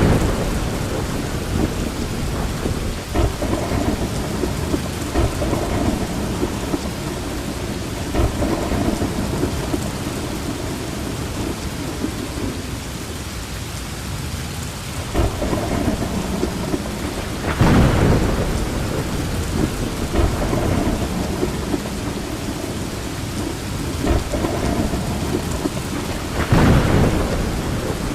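Steady heavy rain with rolling thunder: low rumbles swell and fade under the rain several times, loudest about two-thirds of the way through and again near the end.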